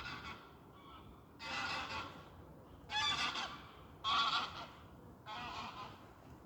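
Geese honking as they fly past, a series of about five separate calls, loudest around three to four seconds in.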